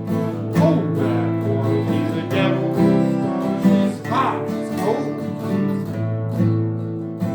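Acoustic guitars strumming a steady rhythm, with a viola playing a sliding melody line over them.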